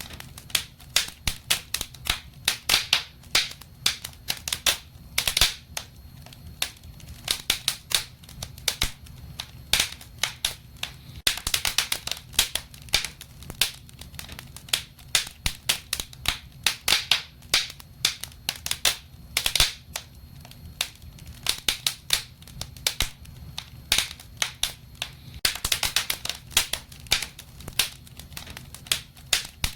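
Wood fire burning in a fireplace, crackling and popping irregularly with bunches of sharp snaps over a faint low rumble.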